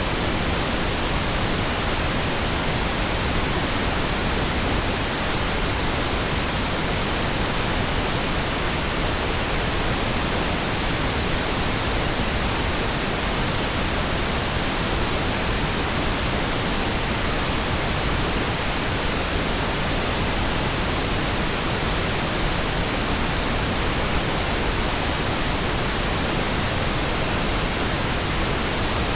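Pink noise: a steady, even hiss spread across all pitches, with no changes or breaks.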